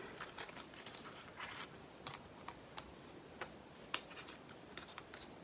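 Faint, scattered light clicks and taps of small plastic diamond-painting drill pots and bags being handled, with one sharper tick about four seconds in.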